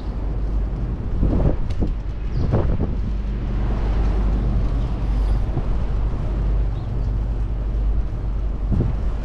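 Wind rumbling on the microphone of a moving bicycle, with motor traffic running alongside.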